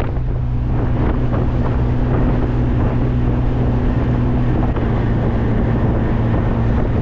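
Classic car cruising: the engine drones at a steady pitch under loud, even wind and road noise.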